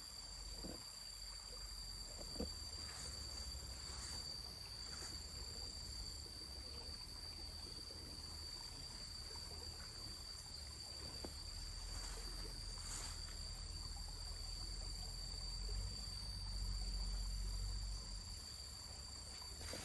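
Insects trilling steadily in a high, unbroken tone, over a low rumble that grows louder for a couple of seconds near the end, with a few faint knocks.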